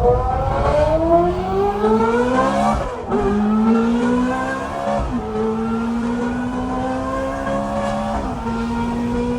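Ferrari F430's 4.3-litre V8 with an aftermarket exhaust accelerating hard through the gears: the note climbs, drops at an upshift about three seconds in, climbs again, shifts near five seconds and again near eight seconds, then holds a steadier pitch.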